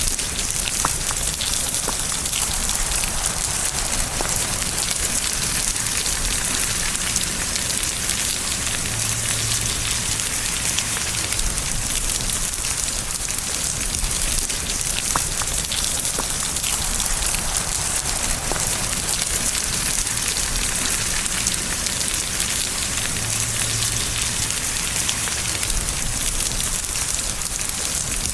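Steady rain falling on a surface: a dense, even hiss with scattered individual drop ticks.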